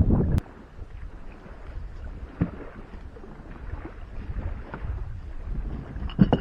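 Wind rumbling on the microphone, cut off abruptly about half a second in. Then quiet open-water sound with a few light knocks, the loudest near the end.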